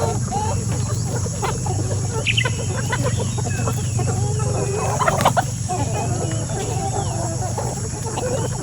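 A flock of layer hens clucking and calling, many birds overlapping, with a couple of sharper squawks about two and five seconds in, over a steady low hum.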